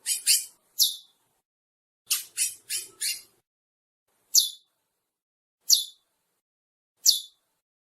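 Curió (chestnut-bellied seed finch) calling in short high notes, each falling a little in pitch: a quick run of several notes at first, then single notes spaced about a second and a half apart.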